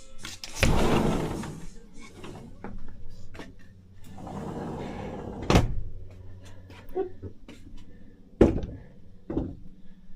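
A run of household knocks and thuds, the kind a door or cupboard makes, with two stretches of rustling or scraping noise. The loudest knocks come a little past halfway and near the end.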